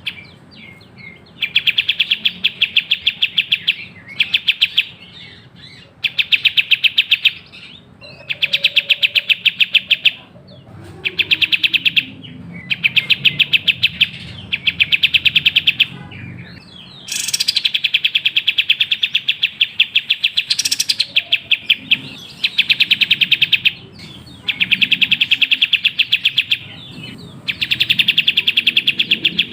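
Kapas tembak songbird singing a series of rapid, evenly repeated trills, each burst lasting one to two seconds with short pauses between, and one longer burst about halfway through.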